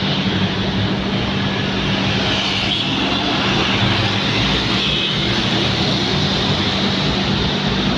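Jet airliner engines: a steady, loud rush of engine noise with a constant low hum underneath.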